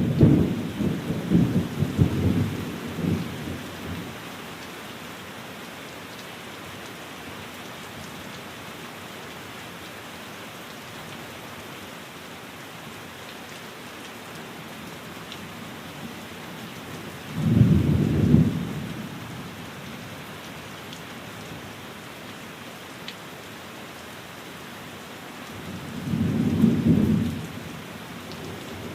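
Steady rain falling, with three low rolls of thunder: one at the very start lasting a few seconds, one a little past halfway and one near the end.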